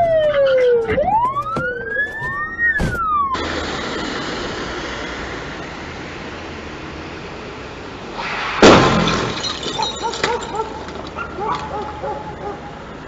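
An emergency vehicle siren wails, gliding down and then up in pitch, and cuts off suddenly about three seconds in. Steady road noise follows, broken past the middle by a loud car crash impact with breaking glass, followed by scattered clicks of debris.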